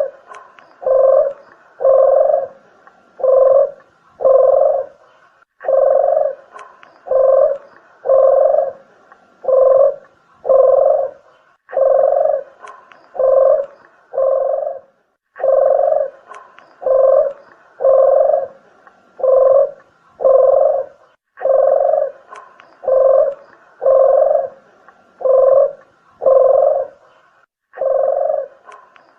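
Island collared dove (deruk, puter) cooing over and over, a low note repeated about once a second in runs of four or five with short breaks between runs.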